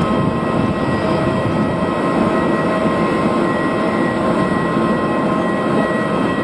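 Jet airliner engines running steadily: a constant high whine over a broad rumble, with no rise or fall.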